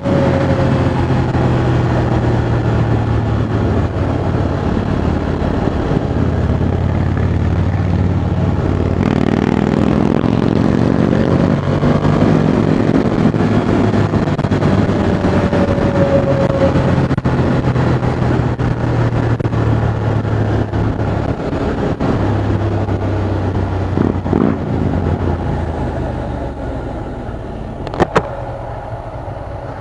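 Ducati Monster 620's air-cooled V-twin running under way with wind rush on the microphone, its pitch holding steady and shifting in steps as the speed changes. It eases off and quietens near the end, where there is one brief sharp click.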